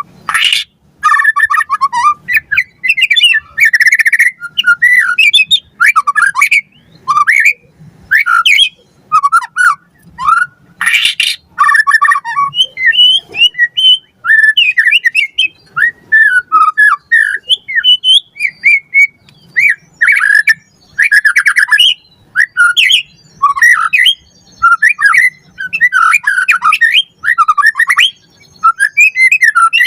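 White-rumped shama (murai batu) singing nonstop in a rapid run of varied whistled and chirped phrases. Harsh rasping notes break in near the start and again about eleven seconds in.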